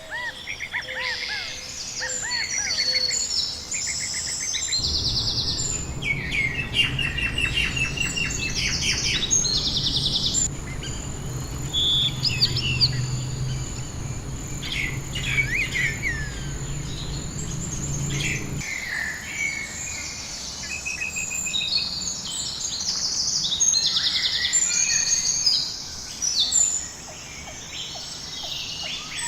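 Several birds chirping and singing at once, with short calls, trills and rapidly repeated notes overlapping. A low rumble comes in about five seconds in and stops about two-thirds of the way through.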